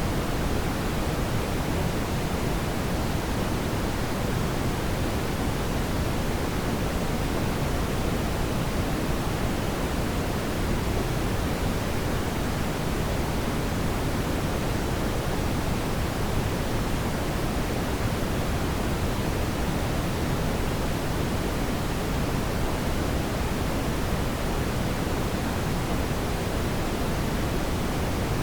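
Steady brown noise: an even, unchanging deep hiss, strongest in the low end and softer toward the treble.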